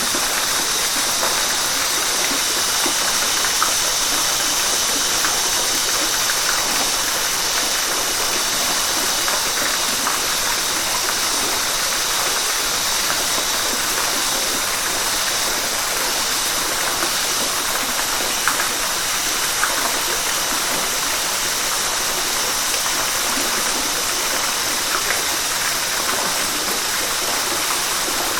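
River water rushing steadily, an even, unbroken wash of noise with a few faint small splashes.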